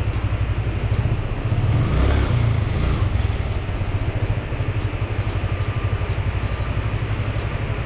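Yamaha motorcycle engine idling with a steady low pulsing beat, briefly revved about two seconds in.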